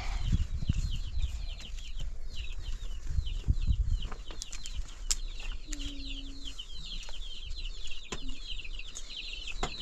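A flock of small birds, likely chicks, chirping continuously in rapid short high peeps, with a few sharp knocks and low rumbles of handling underneath.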